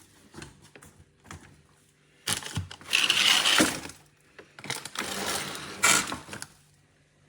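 A few light clicks and knocks, then two longer bursts of clattering, rustling noise about two seconds each, the second ending about six and a half seconds in.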